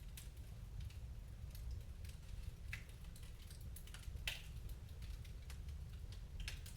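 Fireplace fire crackling: irregular sharp snaps and pops over a low steady rumble, the loudest snap a little past the middle.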